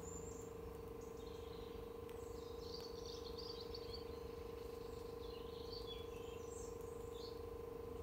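Small birds chirping and twittering in several short, high-pitched bursts, over a faint steady hum.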